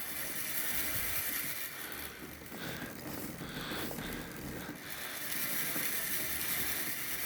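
Sun Ringle Mulefut fat-bike rear hub freehub ratcheting: a dense, rapid stream of pawl clicks as the wheel freewheels at high speed and the cranks are backpedalled.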